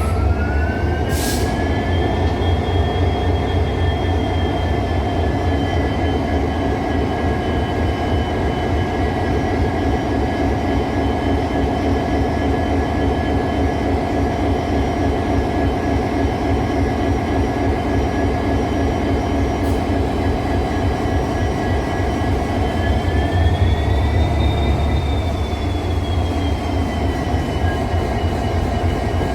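EMD 710 diesel engine of a WDP4 locomotive running just after startup and settling to idle: a steady low rumble with a whine that rises over the first couple of seconds and then holds steady. Later the whine swells briefly and falls back, and there is a single sharp click about a second in.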